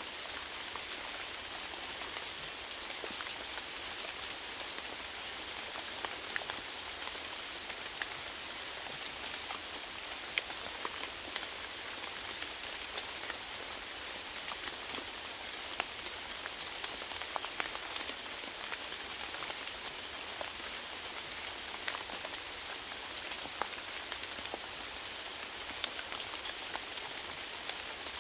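Steady rainfall on a surface, an even hiss scattered with many sharp individual drop hits.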